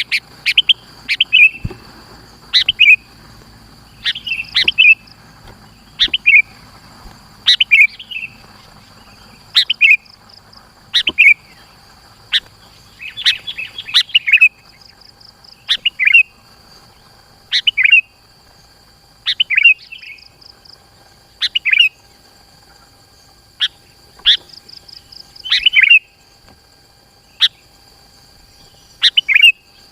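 Sooty-headed bulbul (kutilang) singing short, loud chirping phrases about every two seconds, in its lively 'gacor' song used to lure and tutor other bulbuls. A faint steady high-pitched tone runs behind the song.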